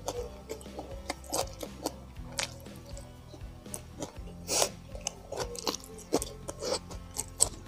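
Close-miked chewing and mouth sounds: a man eating spicy sausage and rice by hand, with irregular wet clicks and smacks, the loudest about halfway through. Background music plays underneath.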